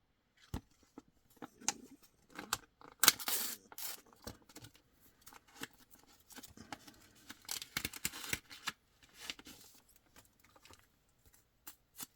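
A trading-card pack being opened by hand: the wrapper crinkles and tears in irregular bursts, loudest about three seconds in and again around eight seconds, among scattered clicks and rustles as it is handled.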